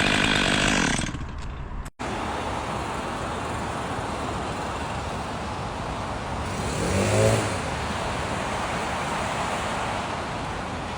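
A chainsaw's engine note dies away in the first second or so. After a break, steady outdoor road noise follows, with one vehicle swelling past about seven seconds in.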